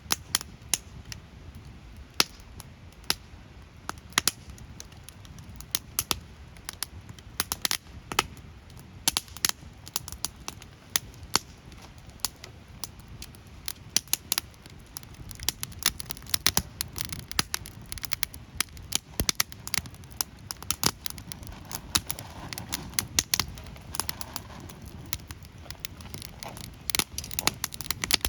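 Bonfire crackling, with sharp pops at irregular intervals, in places in quick clusters, over a low steady rumble.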